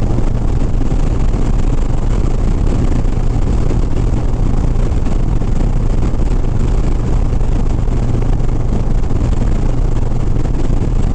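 Harley-Davidson Sport Glide's V-twin engine running steadily at highway cruising speed, a constant low drone with the rush of wind and road noise over it.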